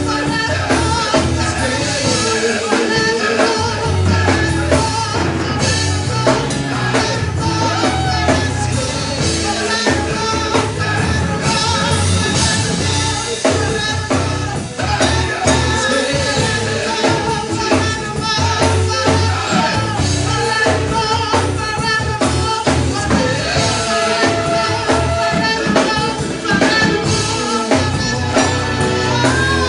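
Live worship band playing, with drums, bass and tambourine under sung vocals.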